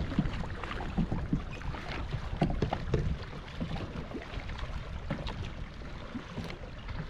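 Choppy water splashing and lapping irregularly against a kayak, with paddle strokes dipping into rough water as it is paddled hard upwind.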